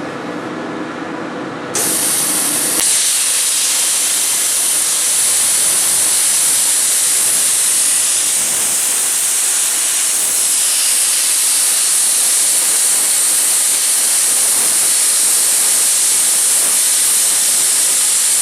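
Plasma cutting machine cutting 10 mm steel plate: about two seconds in the arc strikes and the sound jumps from a steady hum to a loud, even hiss that holds.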